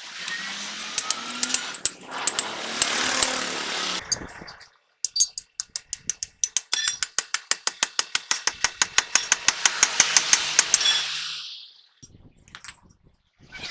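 Power tool at work, most likely a pneumatic impact wrench: a few seconds of running with a hiss, then a stretch of rapid hammering at about eight blows a second that stops near the end.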